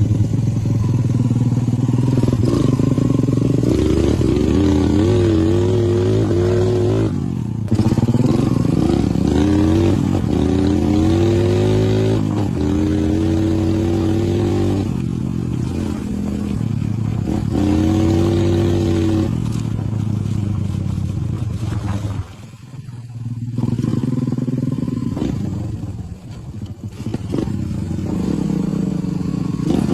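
Motorcycle engine running under way, its pitch repeatedly climbing and falling as the rider works the throttle through the gears. The engine note drops away briefly twice in the second half, as the throttle is rolled off.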